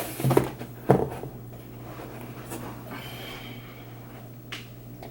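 A measuring spoon knocked twice against a plastic volcano model to shake the baking soda in, two sharp taps within the first second, followed by quieter handling noise and a faint click.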